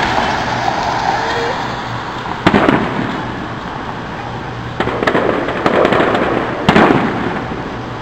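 Aerial fireworks shells bursting: four or five sharp bangs a second or so apart, each followed by rumbling echo.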